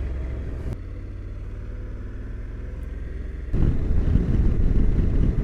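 Honda NC750X motorcycle's parallel-twin engine running at a steady note while riding, with a low hum. It changes abruptly a little under a second in, then gets markedly louder about three and a half seconds in.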